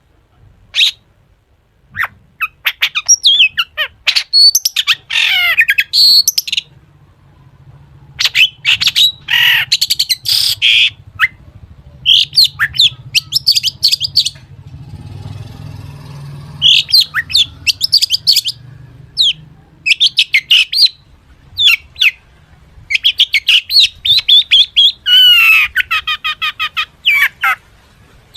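Long-tailed shrike singing loudly in fast bursts of sharp chirps, harsh squawky notes and quick trills, broken by short pauses, with a quieter stretch about halfway through. The song is packed with mimicked calls of other birds.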